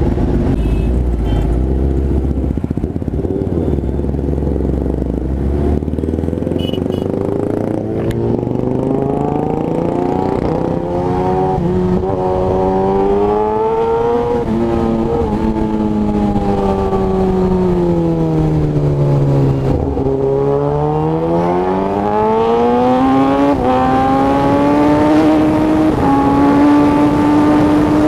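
2017 Kawasaki ZX-10R's inline-four engine with an SC Project aftermarket exhaust, heard on the move. A low rumble opens, then the engine note climbs steadily under acceleration, drops back for several seconds as the rider eases off, and rises again near the end.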